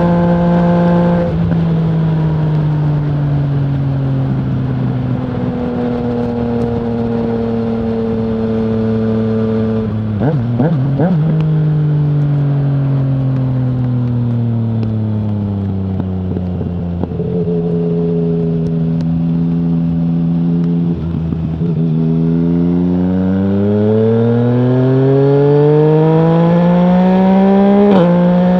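2020 Yamaha MT-09's three-cylinder engine through an Akrapovic full-system exhaust with no dB killer. The revs fall in steps over about fifteen seconds as the bike slows, then hold low for a few seconds. Then the engine accelerates with a steadily rising pitch, with a sudden break near the end as it shifts gear.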